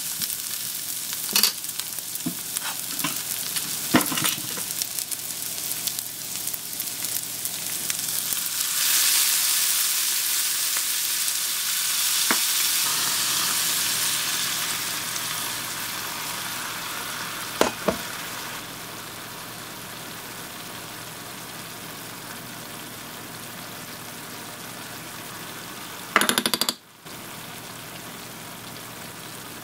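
Pork and sliced onions sizzling in a hot frying pan, with a few sharp spatula scrapes and taps in the first seconds. About nine seconds in, pork broth hits the pan and the sizzle swells into a louder hiss, then settles into a lower, steady bubbling; a brief clatter near the end.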